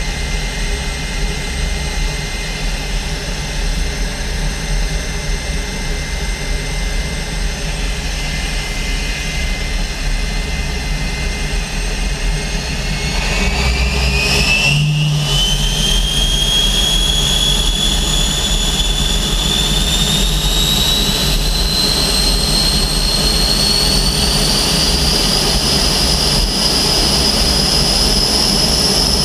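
Aero L-29 Delfin's Motorlet M-701 turbojet running with a steady whine during an engine run-up. About halfway through it spools up: the whine rises steadily in pitch and gets louder, and it is still climbing near the end.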